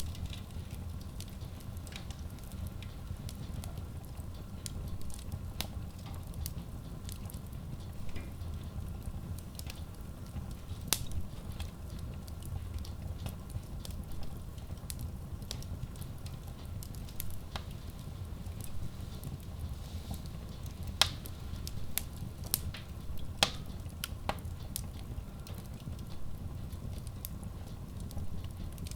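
Logs burning in a Kratki Koza K6 stove-fireplace: a steady low rumble of flames with irregular sharp crackles and pops. The loudest pops come about a third of the way in and twice near three quarters through.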